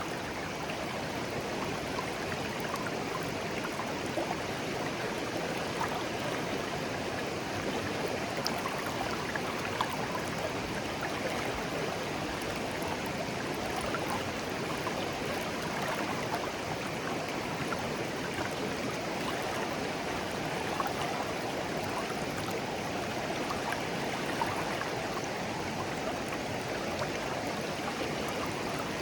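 Clear shallow stream flowing gently over stones, a steady babbling and gurgling of water.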